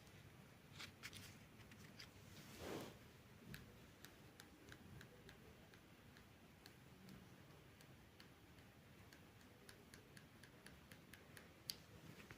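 Near silence with faint, irregular clicks and ticks scattered throughout.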